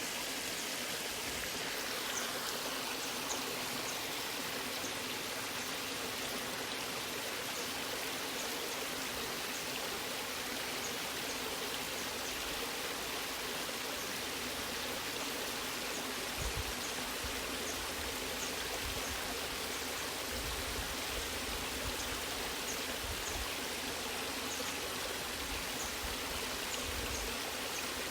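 Natural waterfall rushing steadily. Faint short high chirps sound throughout, and from about halfway in there are irregular low rumbles.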